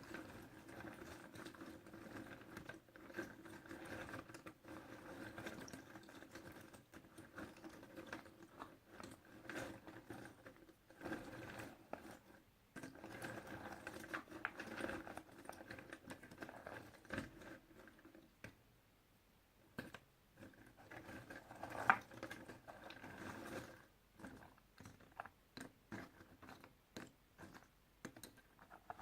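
Puzzle pieces being handled, tapped and clicked together, a steady patter of small irregular clicks and rustles, with one louder click a little past the two-thirds mark and a faint steady hum underneath for much of the time.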